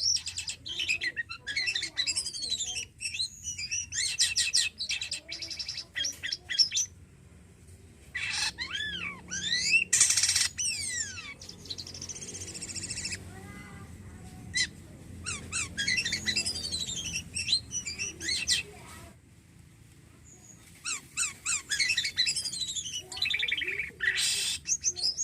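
Black-winged myna (jalak kapas) singing in full voice: busy phrases of rapid chatter and sweeping whistles, broken by a few short pauses.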